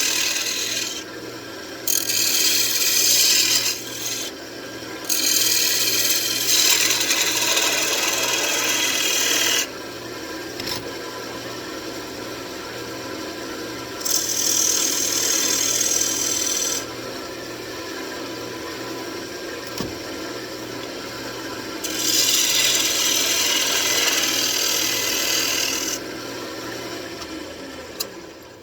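Wood lathe running with a steady hum while a turning tool cuts the spinning wooden lid in repeated hissing passes of a few seconds each, quieter between passes. The sound stops near the end.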